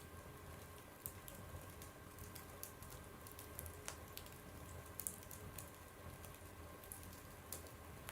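Faint wood fire burning in a stove: a low, steady rumble of flame with irregular sharp crackles and pops from the burning wood.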